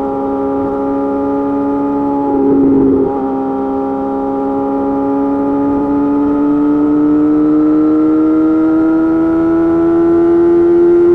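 Yamaha YZF-R6 inline-four engine running steadily through an M4 GP slip-on exhaust. There is a brief louder, rougher patch about two and a half seconds in, and then the pitch climbs slowly and evenly as the bike gains speed.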